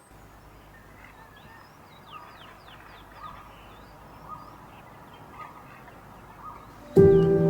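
Woodland birds calling: a short call repeated about once a second, with quick high chirps among them. Near the end ambient music with sustained ringing tones starts suddenly and much louder.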